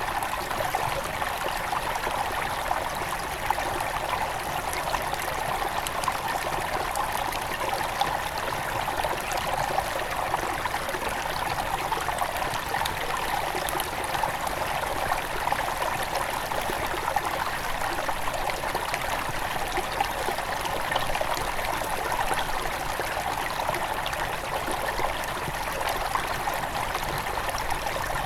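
Small forest stream running over stones at its headwaters: a steady rush of water with fine splashing and trickling.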